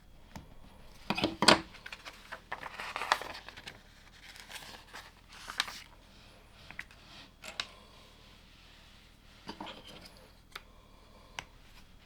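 LEGO pieces being handled: a busy spell of plastic clicks and rustling in the first few seconds, more around the middle, then single sharp clicks of bricks being picked up and pressed together.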